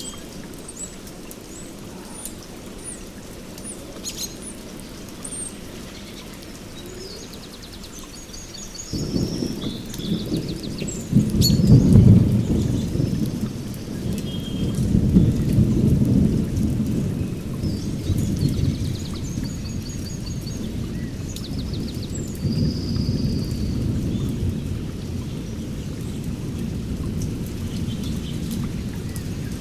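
Thunder rolling in about nine seconds in, loudest a few seconds later and rumbling on over steady rain. Birds chirp and trill throughout.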